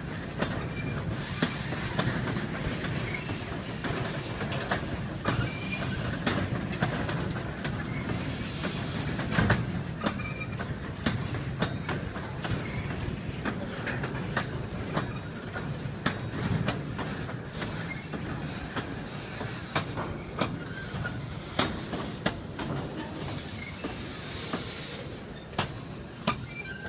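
A train running along the track: a steady low rumble with frequent sharp clicks of the wheels over rail joints and short, high-pitched wheel squeals.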